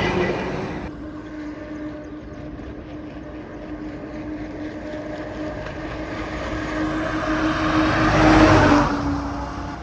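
Heavy diesel trucks passing on a highway: one fades away in the first second, then another's steady engine note and tyre noise build up, pass close about eight and a half seconds in and fade off.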